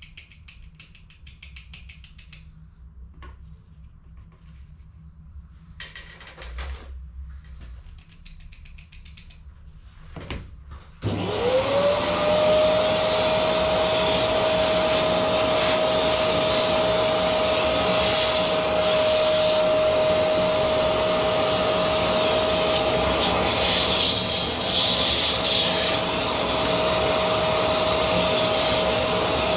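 Faint clicks and handling of cartridge parts, then about 11 seconds in a vacuum cleaner switches on: its motor spins up in a quick rising whine and settles into a steady loud whine over rushing air, used to clear toner during cartridge refilling.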